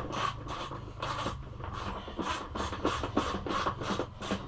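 A ratchet wrench worked back and forth in quick, even strokes, about three or four a second, snugging up a bolt.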